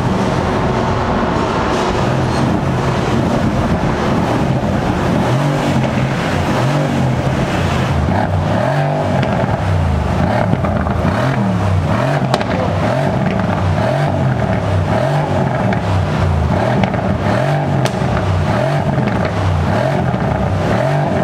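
Mercedes saloon's engine revved again and again while parked, the exhaust note rising and falling roughly once a second.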